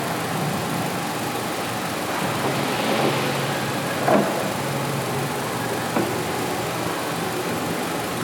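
2011 Nissan Rogue's 2.5-litre four-cylinder engine idling steadily under the open hood, with a sharp knock about four seconds in and a smaller one about two seconds later from handling at the engine bay.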